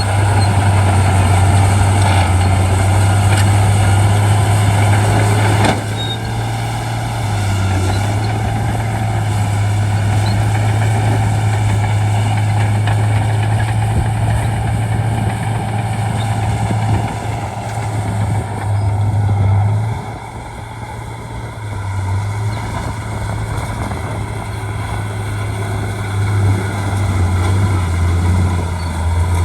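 Shantui D95 bulldozer's diesel engine running under load as it pushes fill, a steady low drone that swells and eases. It drops off briefly about twenty seconds in, then builds back up.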